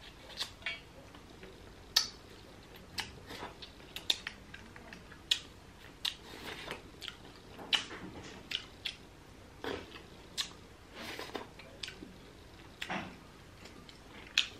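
Close-up chewing and wet lip smacks of a person eating grilled mackerel by hand, with irregular sharp clicks scattered throughout.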